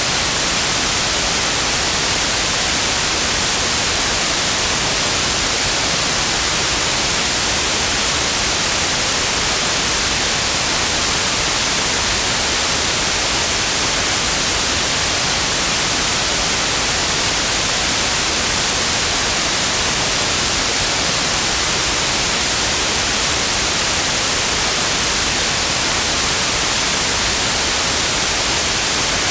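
Steady synthetic white noise: an even, unchanging hiss, brightest in the highs.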